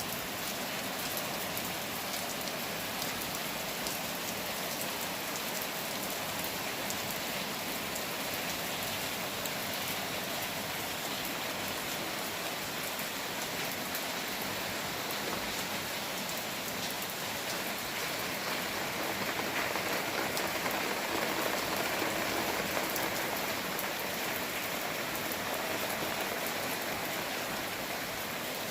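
Steady rain falling, a continuous hiss of drops that swells slightly louder about two-thirds of the way through.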